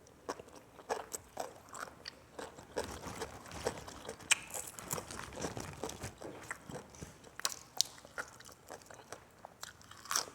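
A person biting and chewing crunchy food close to the microphone, with irregular crunches and wet mouth clicks throughout.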